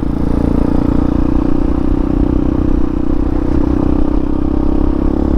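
Hawk 250's air-cooled single-cylinder engine running steadily under load as the motorcycle climbs, heard from the rider's position.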